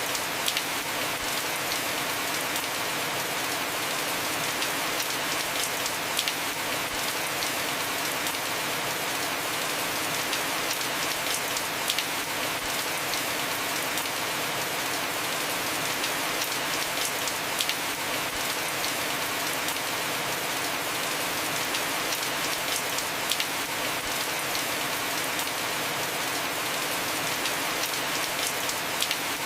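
Heavy rain falling steadily on a house roof, a constant hiss with scattered sharper drop ticks.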